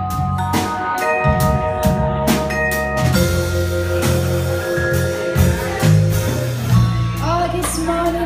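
Live band playing an instrumental passage: drum kit strokes over a bass line and held melody notes.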